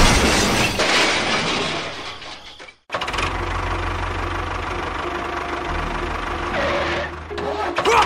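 Engine sound effect laid over a toy tractor. A loud noisy burst fades out over the first two and a half seconds and breaks off. From about three seconds in, a steady low engine idle with an even pulse takes over.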